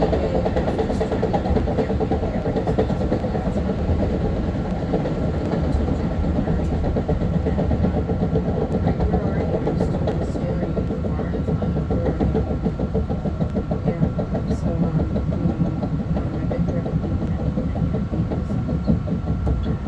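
Long Island Rail Road M3 electric train running on the rails: a steady rumble of wheels and running gear, with a thin steady high tone and scattered faint clicks.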